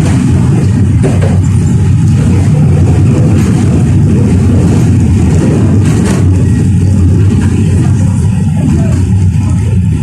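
71-605A (KTM-5A) tram running along the track: a loud, steady low rumble of wheels on rails and traction motors, with a low hum.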